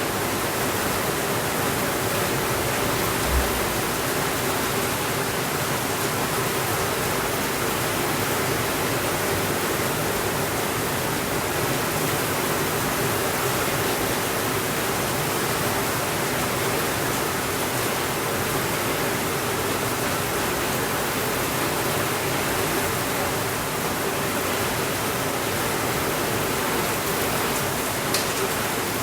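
Heavy rain falling steadily, an even, dense hiss. A single low thump comes a few seconds in, and a short sharp click comes near the end.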